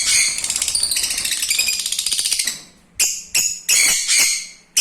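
Lovebirds chattering: a fast, buzzy stream of shrill calls for about two and a half seconds, then a handful of short sharp calls.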